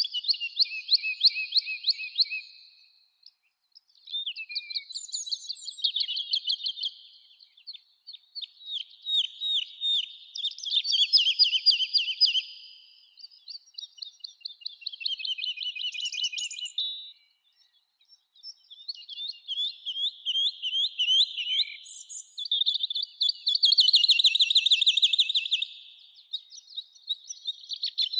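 Songbirds singing in a summer forest: fast, high trilled song phrases a few seconds long, one after another with short pauses between them.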